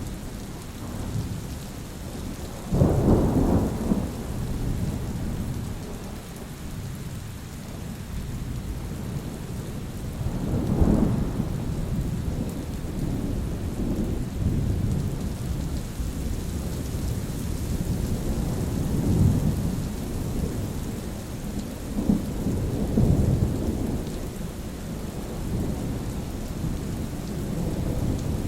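Steady rain with rolling thunder: a sudden thunderclap about three seconds in that rumbles on, then further lower rumbles at intervals under the constant patter of the rain.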